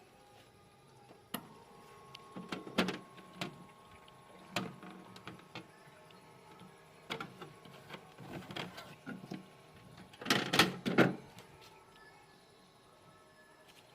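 Scattered knocks and clicks of hard objects being handled, with a louder burst of clattering about ten and a half seconds in.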